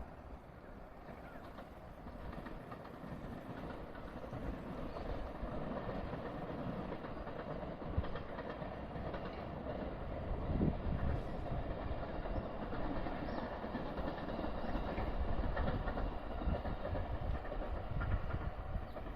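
A train running past on the line, its rumble and wheel-on-rail clatter growing louder over the first several seconds and then holding steady.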